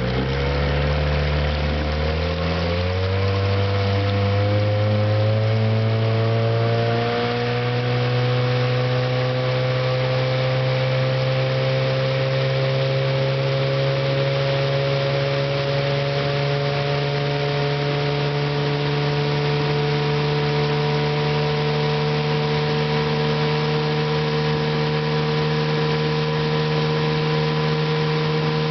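1966 Johnson 9.5 hp two-stroke twin outboard motor running under way. Its revs climb over the first several seconds, then hold at a steady high speed with only a slight slow rise. It runs smoothly and evenly, though it has not been tuned up.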